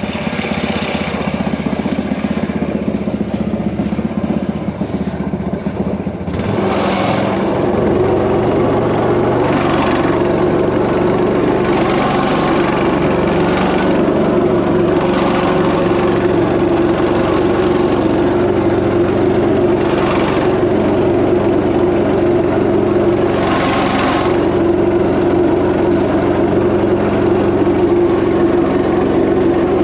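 Predator 212 single-cylinder four-stroke engine driving a homemade mini jet boat: it runs at low speed, then is throttled up about six seconds in and holds a steady higher speed. A brief hiss swells up every few seconds over the engine.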